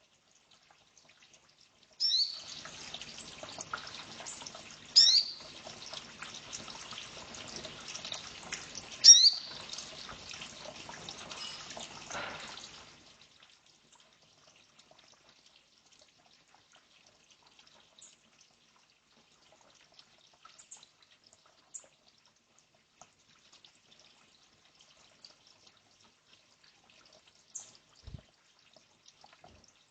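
Sunbirds in an aviary giving short, sharp, high chirps that sweep downward, three loud ones a few seconds apart over a steady hiss that starts and stops abruptly. Faint scattered chirps follow.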